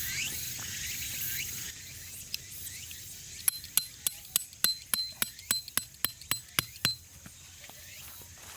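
A run of sharp, evenly spaced mechanical clicks, about four a second for roughly three and a half seconds, like a ratchet being worked.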